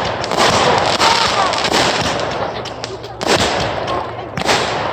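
Fireworks going off in quick succession: a dense crackling of firecrackers mixed with sharper bangs, with two heavier bangs a little past the middle and near the end.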